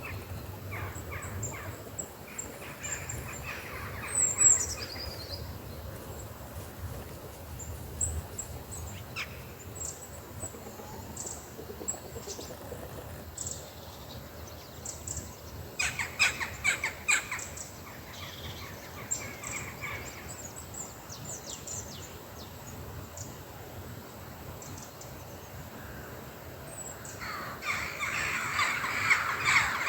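Birds calling outdoors: scattered short calls and chirps, with harsh cawing calls that grow louder and denser near the end.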